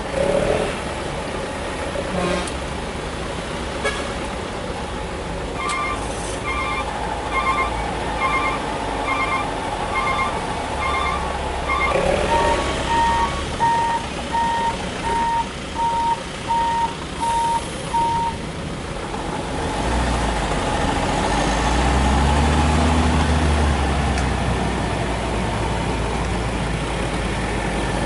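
Heavy-vehicle reversing alarms beeping in steady series: a two-tone pulsing alarm for the first half, then a lower single-tone beep about every 0.7 s for several seconds, over the rumble of heavy machinery. About twenty seconds in, a heavy diesel engine gets louder and revs briefly.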